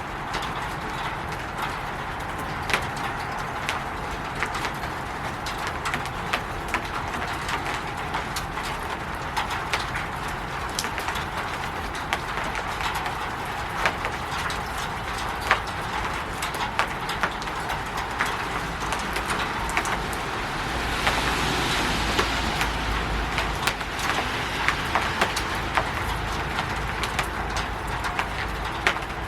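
Rain falling on a roof: a steady hiss with many individual drops tapping sharply throughout. About two-thirds of the way in, a louder rushing swell with a low rumble rises for a few seconds and then fades.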